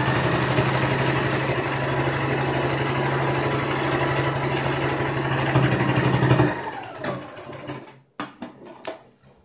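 Sewing machine running steadily at speed, stitching a seam through blouse fabric, then stopping about six and a half seconds in. A few light clicks and knocks follow as the work is handled.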